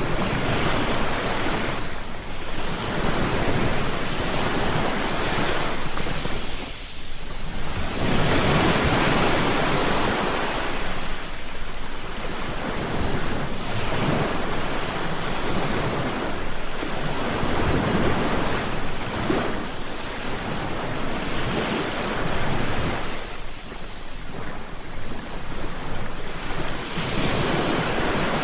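Surf: waves breaking and washing in, swelling and easing every few seconds, with a brief lull about seven seconds in.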